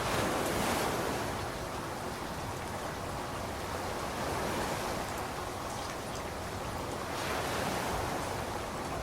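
Steady rainfall, a continuous even hiss that swells briefly louder near the start and again near the end.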